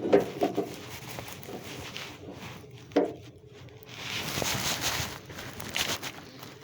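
Rustling and shuffling handling noise from a phone microphone in a pocket rubbing against clothing as the wearer moves about, with a few scattered knocks, the sharpest about three seconds in.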